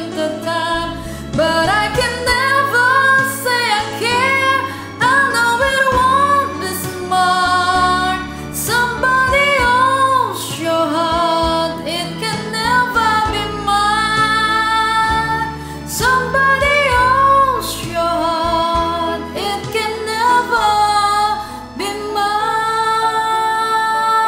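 A woman singing a slow ballad over a karaoke backing track, her voice sliding through vocal runs and ending on a long held note.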